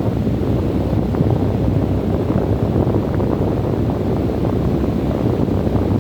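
Desert wind blowing steadily: a low, even rush of air with small gusty flickers on top.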